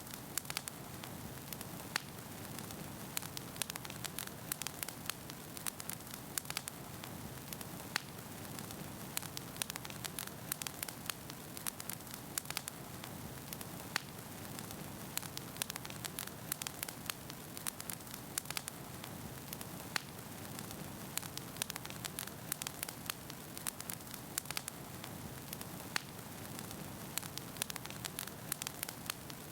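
Wood fire burning in a fireplace: a steady low rush of flame under constant crackling of the logs, with sharper pops every few seconds.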